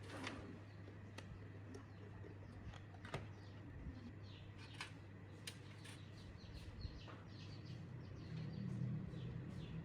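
Small birds chirping in quick, repeated short high notes, thickest in the second half, over a low steady hum, with a few sharp isolated clicks.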